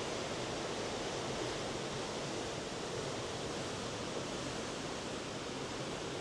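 Steady rushing noise of wind and sea on the open deck of a cruise ship under way, even and unbroken.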